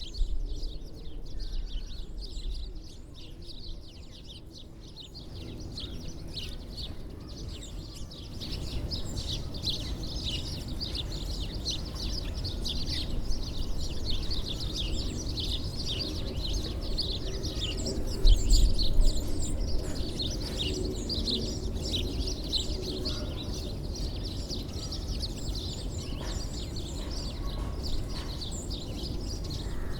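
Many small birds chirping together, a dense chatter of short high chirps that thickens about eight seconds in, over a steady low rumble of background noise. One brief low bump comes past the middle.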